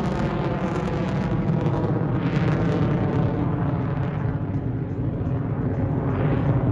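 Loud, steady jet noise from an F-35A's single F135 turbofan as the fighter flies its display, swelling slightly a couple of times.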